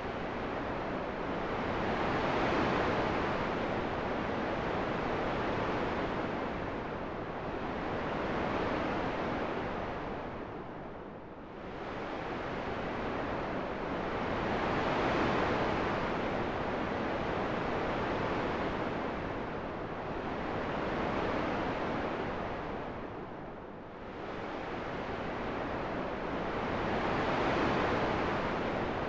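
Wind sound: a steady rushing hiss that swells and eases in slow gusts, sinking to a lull about every twelve seconds, twice.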